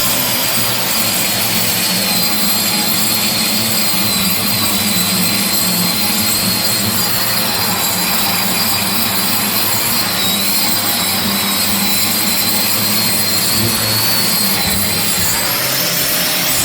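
Electric sander switched on and running steadily under load, a loud, even grinding noise with a high whine that wavers slightly, sanding down the floor where the rotted flooring was removed.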